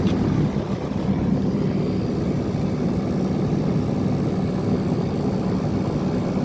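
Outdoor air-conditioner condensing units running: a steady hum of compressor and condenser fan.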